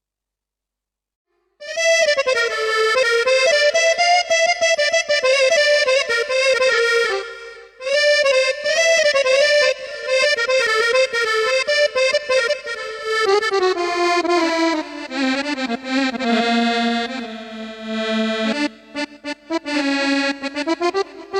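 Korg Triton keyboard playing an ornamented Arabic folk melody on a reedy wind-instrument patch, starting about two seconds in. The single line wavers and bends in pitch, pauses briefly about halfway, then moves lower.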